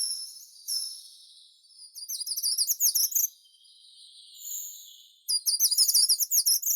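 Songbird singing high and clear: two short falling whistles, then two fast, rapidly repeated phrases, one about two seconds in and one about five seconds in.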